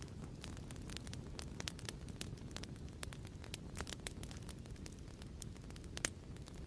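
Crackling fireplace: a steady low rumble of the fire with frequent, irregular sharp pops and snaps.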